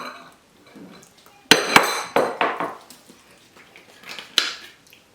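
Dishes and glassware clinking and knocking on a table as they are handled, with two sharp ringing strikes about a second and a half in and another near the end.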